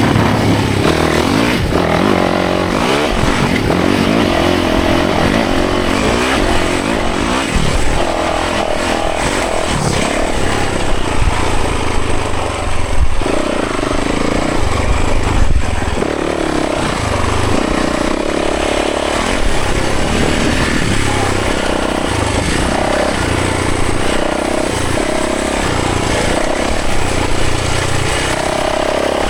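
Yamaha 450 four-stroke single-cylinder dirt bike engine under way on a trail, its pitch repeatedly rising and dropping back as the throttle is opened and closed.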